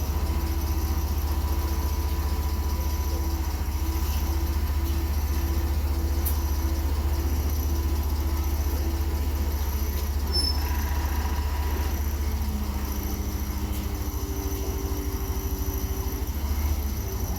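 A vehicle engine running steadily at a constant pitch, a deep low rumble with a faint whine above it.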